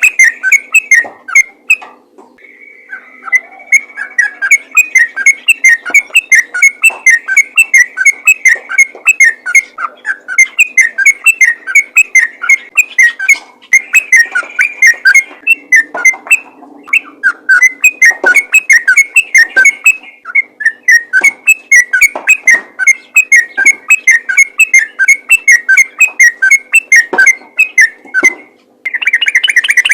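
Sooty-headed bulbul singing loudly in a long, rapid run of short whistled notes, several a second, breaking off briefly twice and turning into a denser, unbroken trill near the end.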